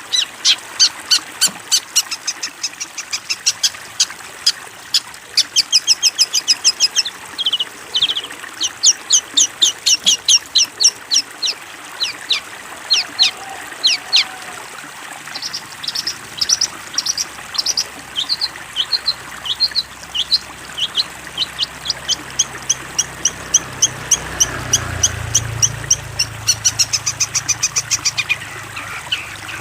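Long-tailed shrike (cendet) singing: fast runs of sharp, high chirps and trills, repeated in series with short breaks. A low rumble swells and fades in the second half.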